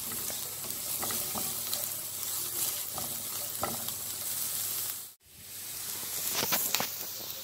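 Chopped onion and garlic sizzling in hot sunflower oil in a nonstick frying pan, with a few light clicks and scrapes as they are stirred. The sound cuts out for a moment about five seconds in, then the sizzle resumes.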